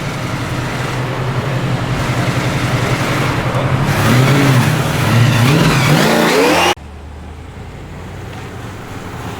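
Ford XB Falcon GT's V8 engine running with a lumpy rumble that grows louder, then revved several times, the pitch rising and falling with each blip. About two-thirds of the way through the sound cuts abruptly to a quieter, steady engine running.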